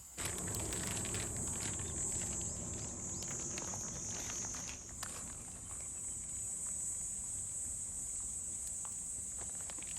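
Insects calling in a steady high-pitched trill, with irregular small crackles and clicks close by.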